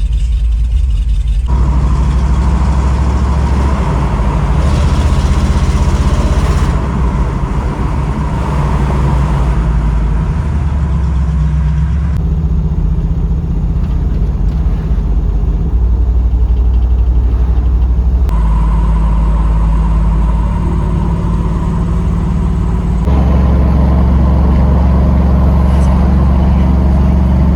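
Car cabin noise while driving: the Camaro's engine and tyre rumble, steady and loud, with the sound changing abruptly several times.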